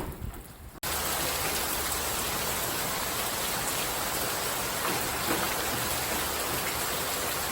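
Steady rain falling, an even hiss that starts abruptly about a second in.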